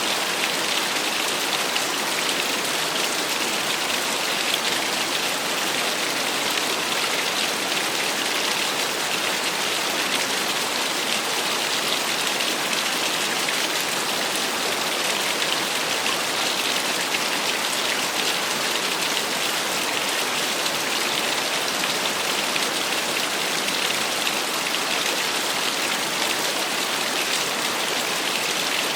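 Small waterfall splashing steadily, a constant hiss of falling water with a spattering, rain-like edge.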